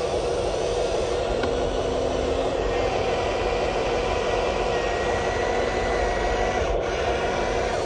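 Electric motors and gearboxes of a radio-controlled Huina construction model running steadily, a constant whirring with a faint high whine over it.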